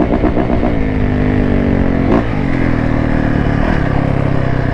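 Dirt bike engine heard from on board, its revs easing down over a few seconds with a brief blip about two seconds in, then settling to a lower steady note, with wind rushing over the microphone.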